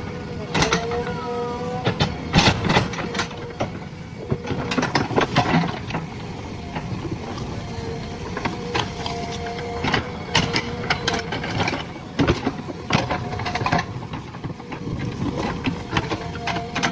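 JCB 3DX backhoe loader at work: its engine runs with a steady whine, under repeated knocks and clatter all through.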